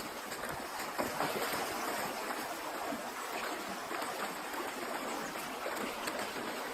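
Steady rush of a shallow creek's water, with a few light splashes as it is waded across.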